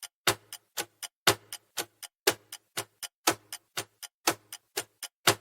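Clock-ticking countdown timer sound effect: sharp, even ticks about four a second, with a louder tick once a second, counting down the time left to answer.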